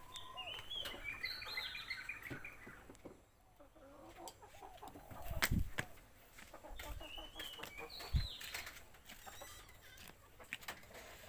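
Birds calling: a flurry of short chirping calls in the first three seconds and another about seven seconds in, with a dull thump about five and a half seconds in and another about eight seconds in.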